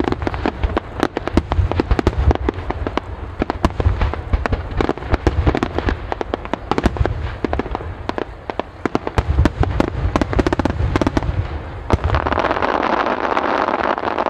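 Rapid barrage of aerial firework shells bursting, many sharp bangs a second over a low rumble. About twelve seconds in it turns into a dense, continuous crackle as a sky-filling cluster of small crackling stars goes off.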